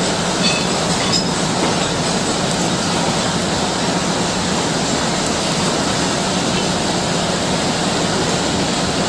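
Gas brazing torch flame hissing steadily while a braze-welding bead is laid with filler rod, with a few faint ticks about a second in.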